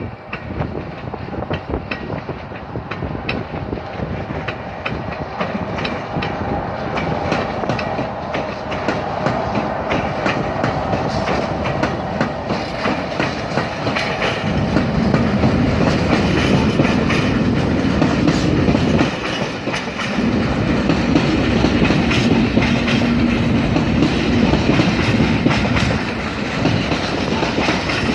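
A train passing close by, its wheels clattering steadily over the rail joints, getting louder with a heavier low rumble from about halfway through.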